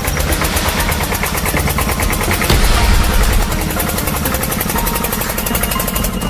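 Engine-like mechanical clatter: a fast, even rattle over a low hum, like a diesel running, a little louder about halfway through.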